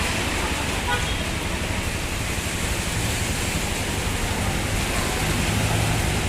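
Steady rain falling, with a vehicle engine humming low underneath that grows louder toward the end.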